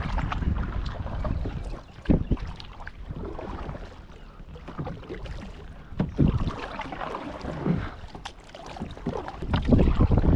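Kayak on the water: irregular splashes and sloshing, with wind rumbling on the microphone, louder near the end.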